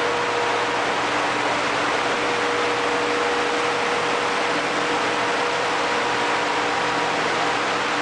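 Ship's engine room machinery running: a steady, loud, even roar with a constant hum held through it.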